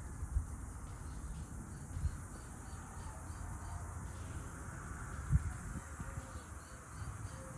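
Faint insect chirping, short high chirps repeating in small groups, with a few soft knocks about half a second, two seconds and five and a half seconds in.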